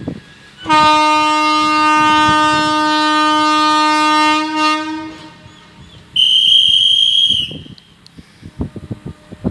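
Locomotive horn sounding one long low blast of about four seconds as the train departs, then after a pause a shorter, much higher-pitched blast of about a second.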